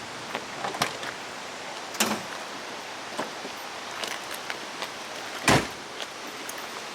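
A few scattered clicks and knocks over a steady background hiss, with the loudest, heaviest thump about five and a half seconds in.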